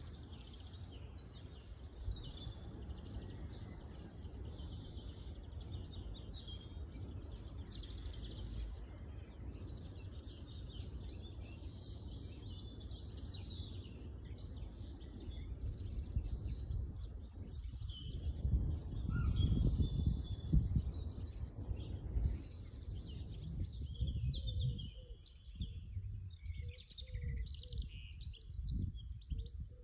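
Wild birds singing and chirping, many short calls overlapping. Underneath is a low rumbling noise that swells about two-thirds of the way through.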